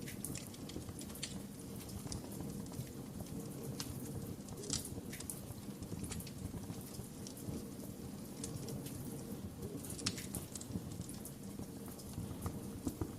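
Wood fire crackling: a steady low rumble of burning with irregular sharp pops and snaps, the loudest about five seconds in and again about ten seconds in.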